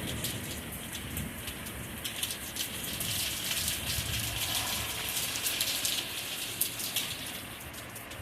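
Steady rain falling and spattering on hard surfaces, with close drops ticking sharply; the tail of a thunder rumble dies away at the start.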